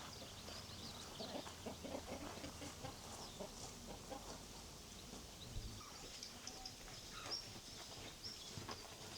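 Chickens clucking faintly, with high, short chirps scattered throughout.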